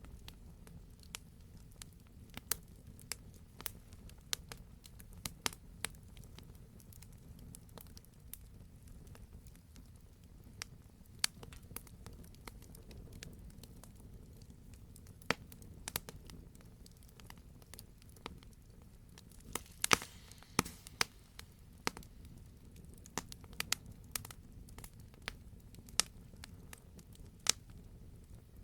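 Wood fire crackling: irregular sharp pops and snaps over a low steady rumble, with a quick cluster of louder pops about two-thirds of the way through.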